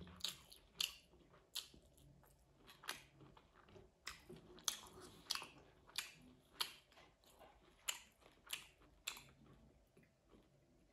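Close-miked wet chewing and lip smacking from a mouthful of rice and meat curry, a sharp smack roughly every half second that stops about a second before the end.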